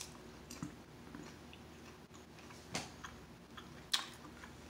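Chewing on a roasted giant water scorpion's hard, flaky wing: scattered small crunches and clicks in the mouth, the loudest nearly four seconds in.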